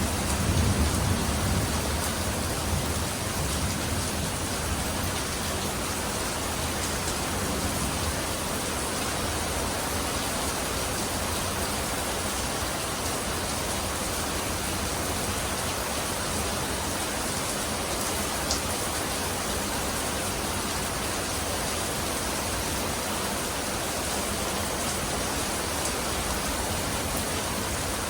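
Steady heavy rain falling, an even hiss of drops on surfaces. Over the first couple of seconds the low rumble of a thunder roll dies away.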